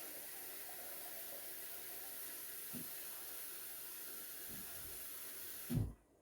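Steady hiss of rushing water that cuts off abruptly with a knock near the end, with a few soft thumps along the way.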